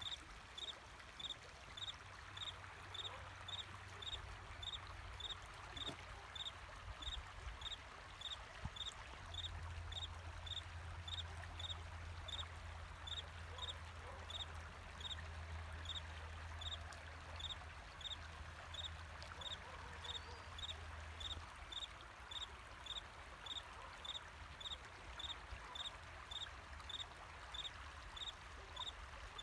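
A cricket chirping steadily, about two short chirps a second, over the even rush of flowing water. A faint low hum comes in about a third of the way through and fades a few seconds before the end.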